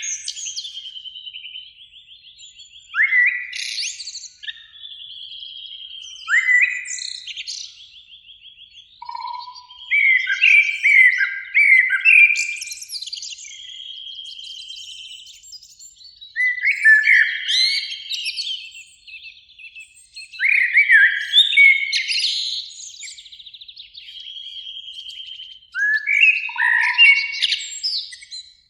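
Common blackbirds singing: phrases of low fluting notes ending in a high, squeaky twitter, starting afresh every few seconds. A faster, even trill fills the gaps between phrases.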